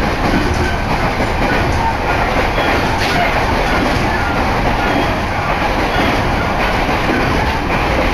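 Train running noise heard from inside a moving Narita Line train: a steady, loud rumble of wheels on the rails.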